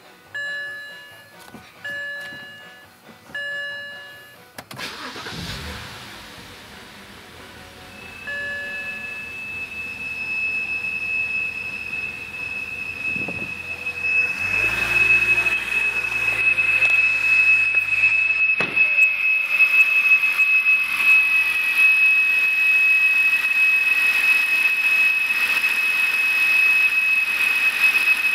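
Car chime repeating four times, then the BMW 330i's 3.0-litre straight-six starting and running with a steady high-pitched whine that grows louder. The owner has ruled out the belt tensioner and idler pulley and places the whine at the rear of the engine, in front of the transmission.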